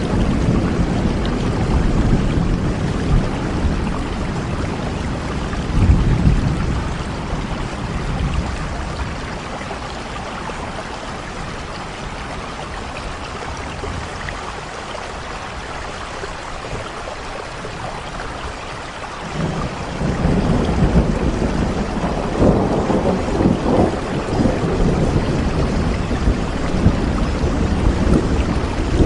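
Steady rain with a deep low rumble underneath. The rumble fades through the middle and surges back suddenly about two-thirds of the way in.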